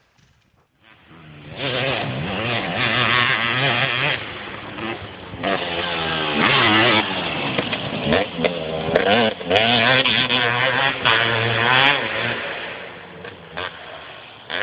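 KTM 250 SX two-stroke engine with an FMF Gnarly expansion-chamber pipe and shorty silencer, starting about a second in and revving up and down repeatedly. Recorded on a phone, which makes it sound louder than it is.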